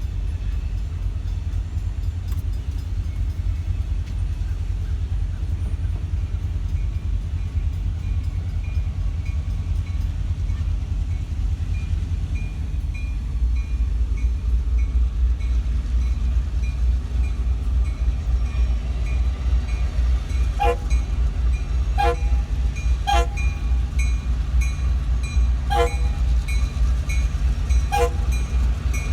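Freight train running with a steady low rumble that grows louder about halfway through. A handful of short, irregular clanks come in the last third.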